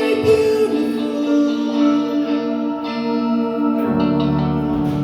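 Live band playing during a soundcheck: held chords with guitar, and a low bass part coming in about four seconds in.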